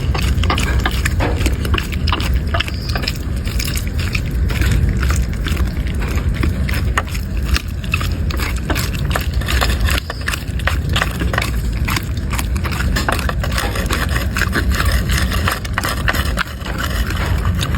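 A dog eating: many quick, irregular clicks and crunches of chewing and mouthing food, over a steady low rumble.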